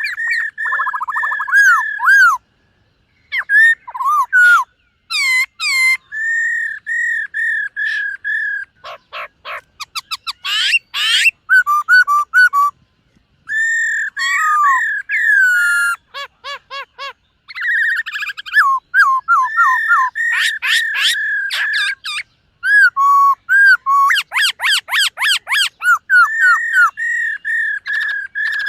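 Black-throated laughingthrush singing a long, varied song of loud clear whistles, slurred up-and-down notes and quick runs of repeated notes, broken by short pauses.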